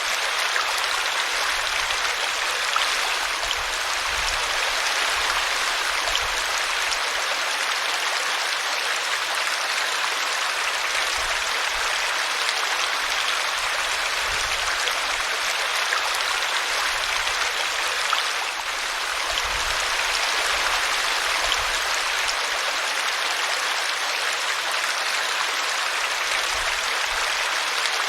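A small brook running steadily, its water splashing over a tree root.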